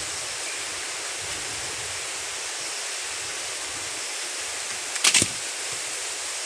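Steady rain falling, a continuous even hiss, with one short sharp knock about five seconds in.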